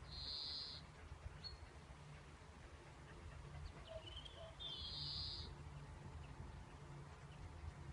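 Small birds singing faintly: two short high trills, one at the start and one about five seconds in, with a few thin chirps just before the second, over a low steady background rumble.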